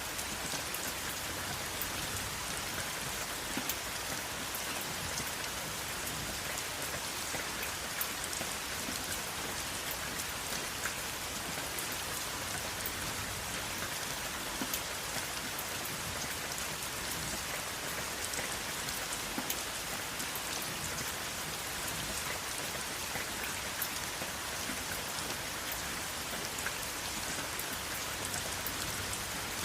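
Steady rain falling on a surface, an even hiss with many small individual drop ticks and no thunder.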